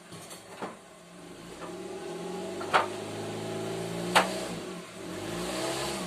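Mitsubishi Delica D2's engine running under light throttle as the car moves, its revs swelling and easing slightly. Two sharp knocks come about a second and a half apart.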